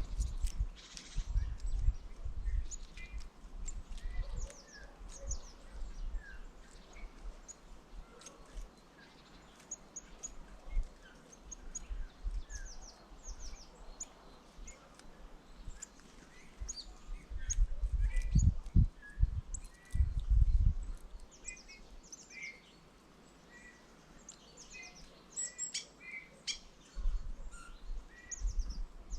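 Small songbirds at a winter feeder giving many short, high chirps and calls. Irregular low thumps and rumbles come through, strongest about two-thirds of the way in.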